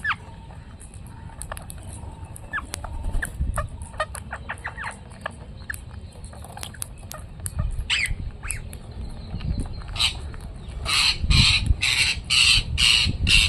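Parrots calling: many short chirps and clicks, then near the end a run of about six loud, harsh squawks in quick succession.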